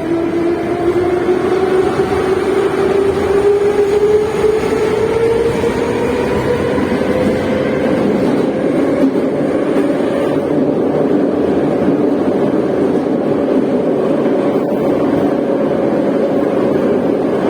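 Moscow metro train running, heard from inside the carriage. The traction-motor whine rises in pitch over the first several seconds as the train gathers speed after leaving the station, then settles into a steady running noise.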